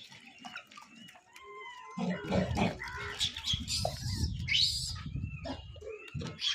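Monkeys calling with short, rising-and-falling squeaks and squeals. From about two seconds in, a low rumble comes in underneath and the squeals grow louder and higher, then the rumble stops about six seconds in.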